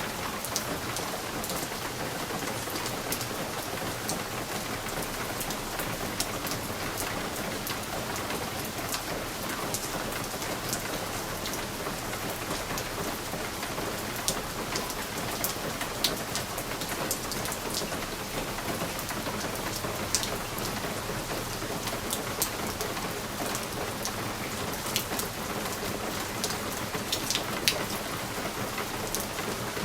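Steady rain, with frequent sharp, separate drops tapping on window glass.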